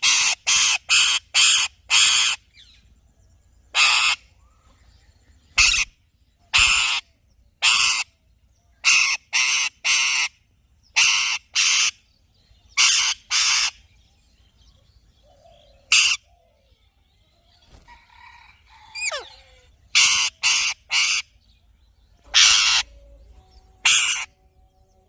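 Alexandrine parakeet giving loud, short, rasping calls, repeated in quick runs of two to five with pauses between the runs. One thin whistle falls steeply in pitch about three-quarters of the way through.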